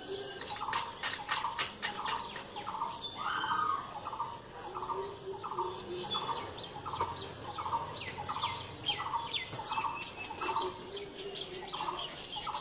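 Birds calling: one repeats a short note about two to three times a second while others chirp higher above it, with a flurry of sharp chirps in the first couple of seconds.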